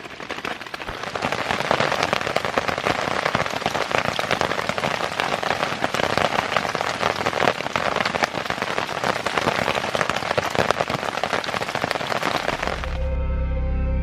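Steady rain falling on a camping shelter, a dense hiss of many close drop hits. Music comes in near the end.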